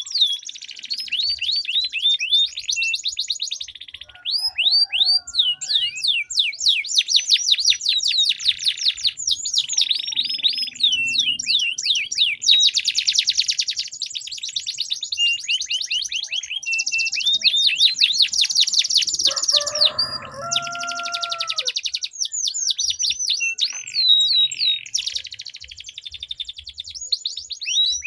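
Domestic canaries singing in long, rapid rolling trills mixed with quick sweeping whistled notes, two or more birds singing against each other.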